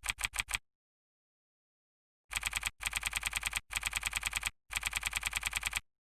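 Typing on a computer keyboard: fast runs of key clicks, about ten a second, in a short burst at the start and four longer runs in the second half, each cut off abruptly by dead silence.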